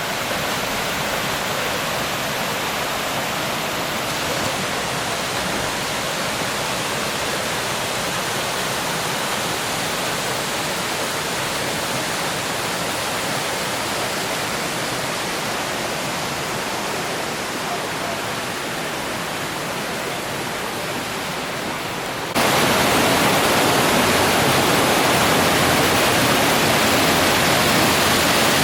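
Steady rush of flowing water, a creek or small falls, that jumps abruptly louder about 22 seconds in.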